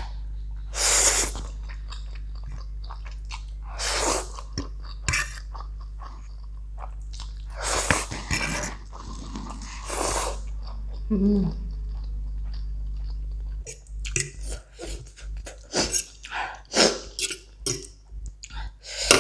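A person chewing mouthfuls of spicy Korean instant noodles close to the microphone, with several loud, irregular bursts of mouth noise. In the last few seconds a metal fork clicks and scrapes on the plate as more noodles are gathered.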